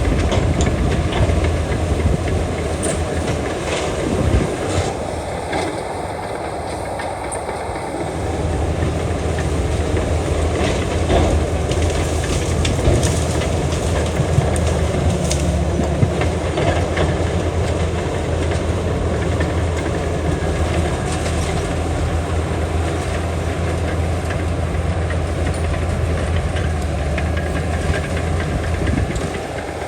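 Bulldozer working: a diesel engine running with a steady low drone over the clatter and clanking of steel tracks and rock. The engine eases off for a few seconds near the start, then picks back up.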